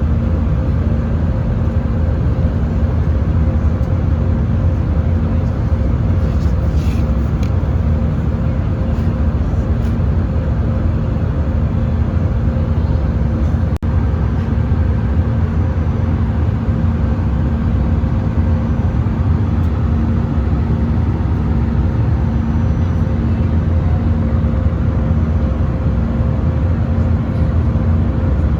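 Airbus A320-200 cabin noise in flight: a steady drone of engines and rushing air with a low hum and a fainter, higher steady tone running through it. A single faint click about halfway through.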